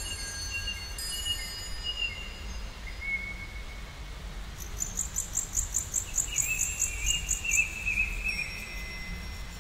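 Bird song: a fast series of high chirps, about three or four a second, begins about halfway through, and a wavering trill joins and runs on near the end. A few held ringing tones sound at the start, and a steady low rumble lies underneath.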